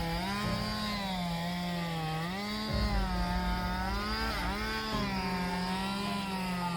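A steady buzzing motor whine whose pitch slides smoothly up and down every second or so.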